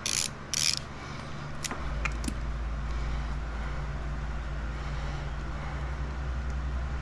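Socket ratchet clicking through its last strokes, backing out a 10 mm bolt, followed by a few light metallic clicks. From about two seconds in, a steady low rumble carries on.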